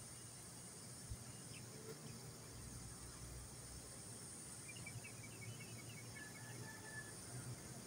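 Faint outdoor ambience: a steady high-pitched hiss and a low hum. About five seconds in, a bird gives a quick run of about ten short chirps, followed by a few brief higher notes.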